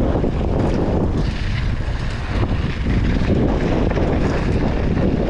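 Wind buffeting the microphone of a mountain biker's camera while riding, a loud steady low rumble, with a few faint rattles from the bike.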